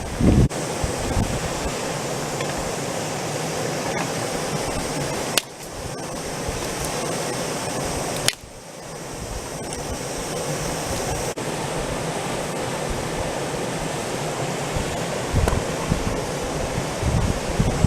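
Small mountain stream flowing over a stony riverbed: a steady rushing of water, broken twice by abrupt short dips about five and eight seconds in.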